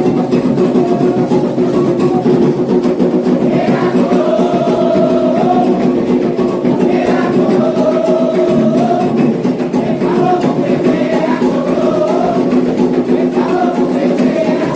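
Candomblé ritual music for Ogum: steady, dense hand drumming with group singing joining in about four seconds in.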